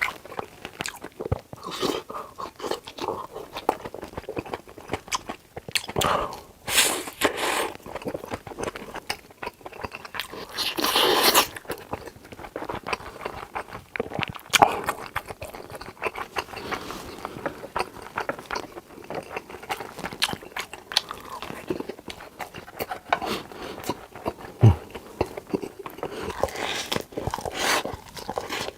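Close-miked eating: steady chewing and biting with crunchy, wet clicks, louder for a moment about six seconds in and again near eleven seconds.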